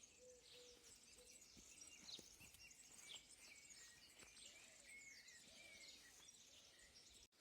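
Near silence with faint, distant birds chirping.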